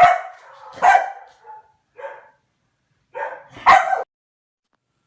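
A dog barking several times in short bursts, with the last pair of barks the loudest, stopping about four seconds in.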